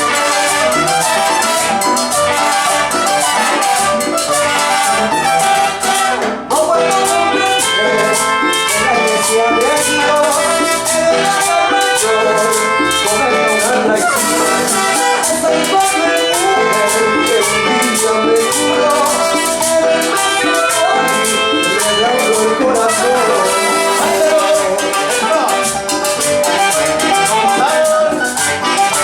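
Salsa-style Latin dance music from a band, with a quick, steady percussion beat and maracas.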